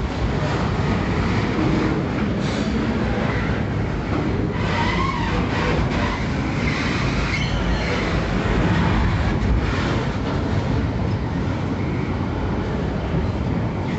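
Freight train's container flatcars rolling past close by: steady rumble and rattle of steel wheels on the rails, with knocks over rail joints and a few brief light wheel squeals about five and seven seconds in.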